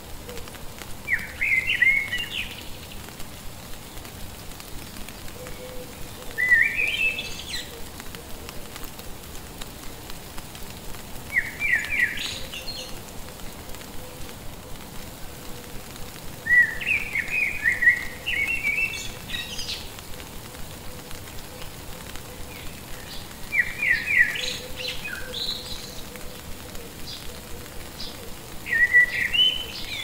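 A songbird repeating a short phrase of quick chirping notes about every five seconds, six times.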